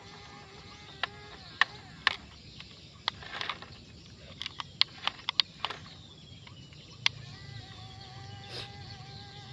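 Small electric motor of a remote-control toy dump truck whining steadily. It is broken up by a series of sharp clicks and knocks, and comes back at a higher pitch near the end.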